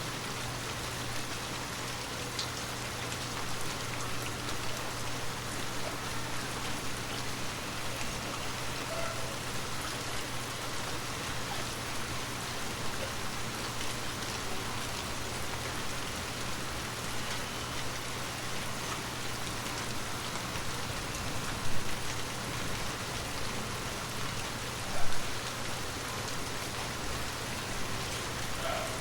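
Heavy rain falling steadily in a dense, even hiss with a low steady hum beneath it. Two short, louder hits stand out in the second half, about three seconds apart.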